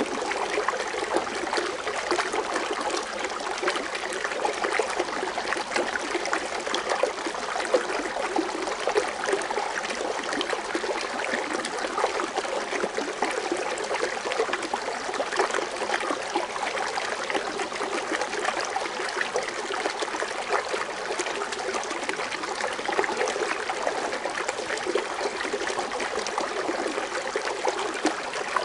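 Foaming water fountain splashing and trickling steadily, a dense even babble of falling water.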